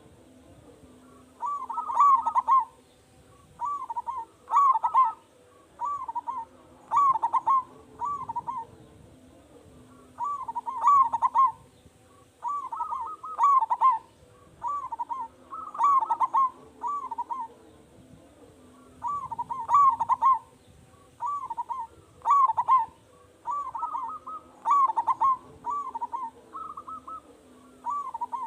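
Zebra dove (perkutut) singing: phrases of quick, short coos repeated over and over, a new phrase every two to three seconds.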